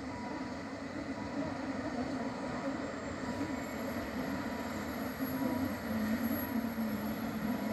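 Long red Rhaetian Railway train running slowly around a tight curve: a steady rumble of wheels on the track.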